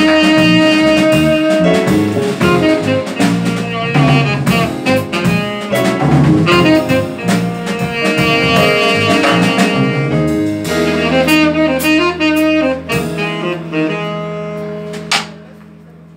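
Jazz quartet of saxophone, piano, double bass and drums playing the closing bars of a tune. From about eleven seconds in, the band holds a long final chord, punctuated by one last sharp hit near the end, then dies away.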